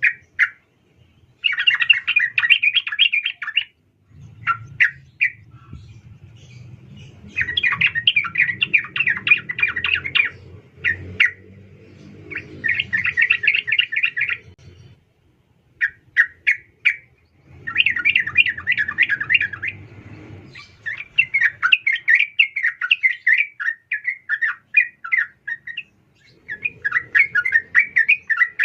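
Sooty-headed bulbul (trucukan) giving bursts of rapid chattering calls a few seconds long, broken by short gaps and single notes; the calls of a female bulbul, used as a lure to set males calling. A fainter low hum lies under some of the bursts.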